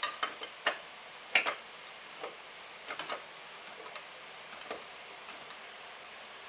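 Irregular small clicks and taps of a tool and metal and plastic faucet parts being handled and a retaining nut being fitted, thickest in the first few seconds and sparser after.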